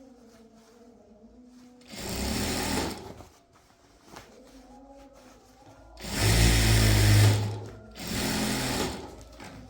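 Sewing machine stitching in three short runs: one of about a second, a longer one of about a second and a half, then another of about a second.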